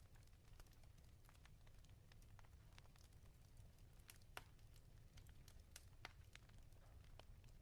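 Wood fire crackling in a fireplace: quiet, irregular pops and snaps, a sharper one about four seconds in and another about six seconds in, over a low steady rumble.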